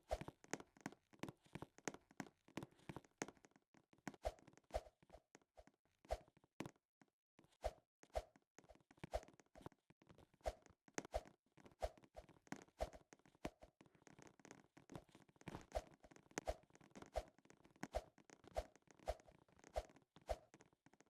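Faint tapping and soft knocks, about one or two a second from a few seconds in, with many small clicks between them.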